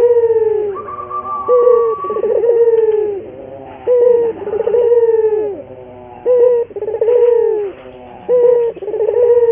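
Collared dove (burung puter) cooing loudly and repeatedly, about one falling, throaty coo every second or so: the frequent, vigorous calling of a 'gacor' dove, used as lure audio to get other doves calling.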